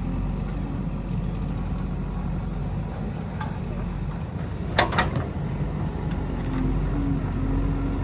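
Diesel engine of a JCB 3DX backhoe loader running steadily under work, with two sharp knocks about a fifth of a second apart halfway through.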